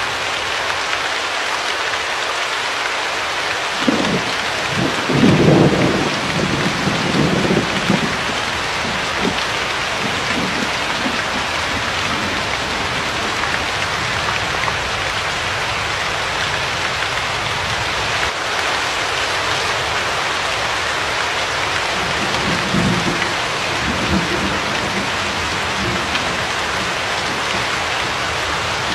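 Steady heavy rain falling, with low thunder rolling twice: a longer rumble a few seconds in and a weaker one near the end.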